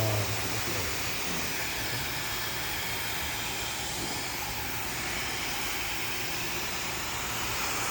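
Hand-held hair dryer running steadily, a constant rush of blown air.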